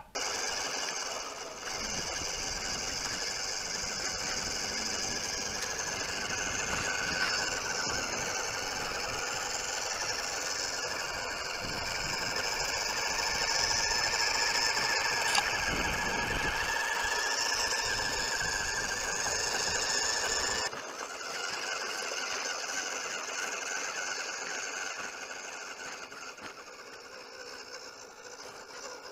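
WPL B-36 RC military truck's small electric motor and metal gearbox whining steadily as the truck drives over dirt and gravel. A low rumbling noise underneath drops away about two-thirds of the way through.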